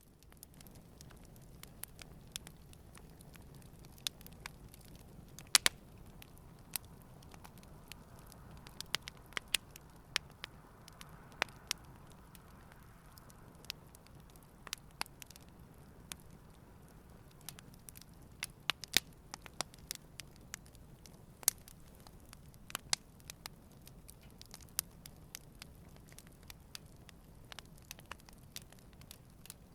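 Wood campfire burning gently: frequent irregular sharp crackles and pops, a few louder snaps among them, over a soft steady hiss of the flames.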